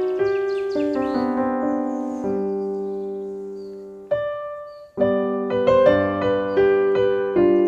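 Piano music: a slow melody of struck notes that ring and fade, with a short pause about two-thirds of the way through.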